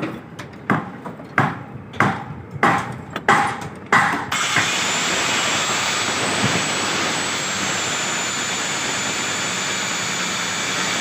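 A run of about six short, sharp strokes, then a power cutting tool starts abruptly about four seconds in and runs steadily at full speed with a faint high whine.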